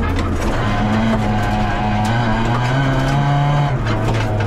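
VW Polo rally car's engine heard from inside the cabin, revving hard, its pitch climbing and dropping back as the driver changes gear, with a few sharp knocks over the running noise.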